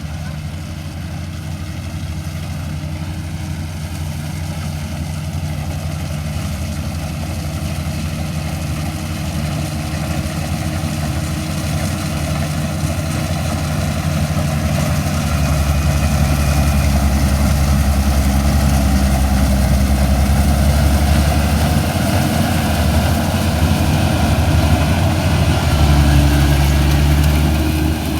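Rice combine harvester's engine running steadily with a deep hum, growing louder over the first half and then holding level.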